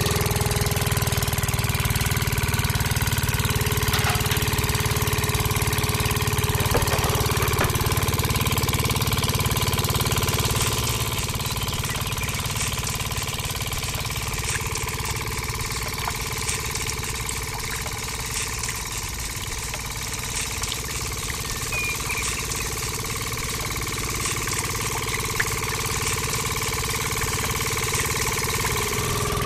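Miniature model engine unit running steadily and belt-driving the rollers of a toy juice press: a continuous engine-like drone with a steady whine. It drops slightly in loudness about eleven seconds in, with scattered light ticks in the second half.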